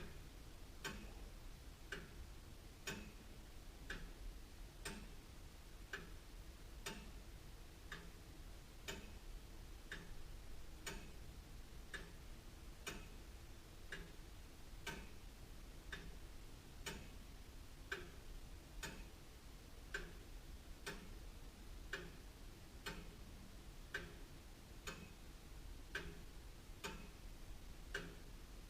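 Antique William Holliwell of Liverpool clock ticking steadily, about one tick a second.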